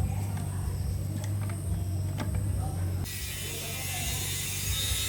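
A steady mechanical hum with scattered sharp clicks of metal tools, changing to a hiss about three seconds in.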